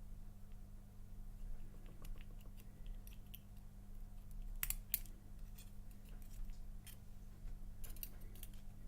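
Small, sharp metallic clicks and ticks of tweezers working tiny pins out of a disassembled padlock core, with a few louder clicks about halfway through and again near the end, over a steady low hum.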